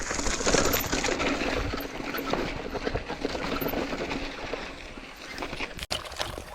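Mountain bike riding over a rough dirt trail: tyres crunching on loose stones, with a dense run of small clicks and rattles.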